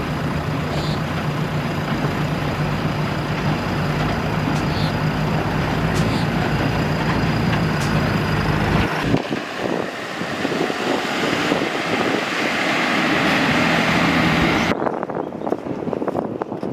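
Heavy construction-machine diesel engine running steadily with an even low hum. About nine seconds in, the sound cuts abruptly to a rougher machine noise. Near the end it cuts again to gusty wind on the microphone.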